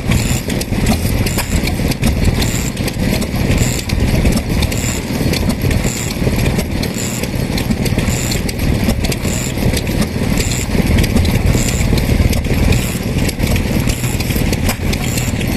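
Vintage engine running steadily with a fast, even beat, and a faint high tick repeating about once a second.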